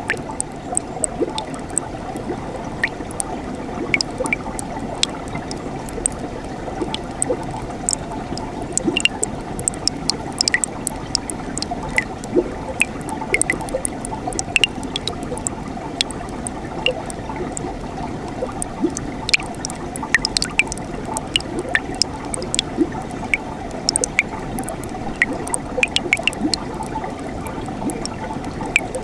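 Mountain stream flowing steadily over rocks, a continuous rushing with many small sharp splashes and drips throughout.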